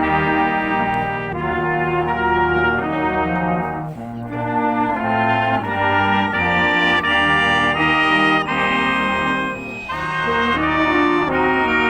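Police wind band playing live, led by trumpets and trombones, in a series of held brass chords with brief breaks about four and ten seconds in.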